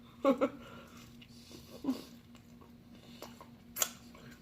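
Quiet chewing and mouth sounds from eating chicken wings, with a short vocal sound near the start and a sharp smack or click a little before the end. A steady low hum sits underneath.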